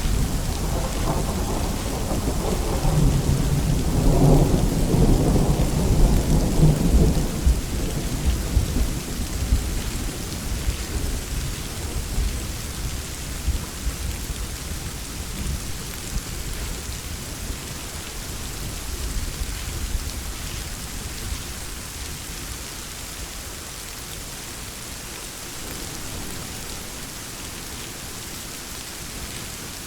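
Thunder rumbling over steady heavy rain, loudest a few seconds in, then dying away over the next ten seconds. After that, rain alone keeps falling with an even hiss.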